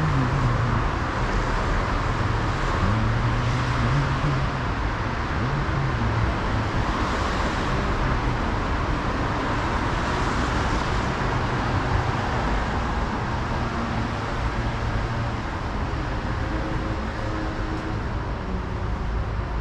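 City road traffic: a steady rush of car engines and tyres, with a few vehicles swelling past about a third and halfway through.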